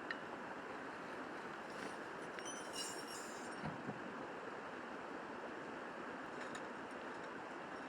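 Riverside stream rushing steadily. A few faint clicks and light knocks come about three seconds in.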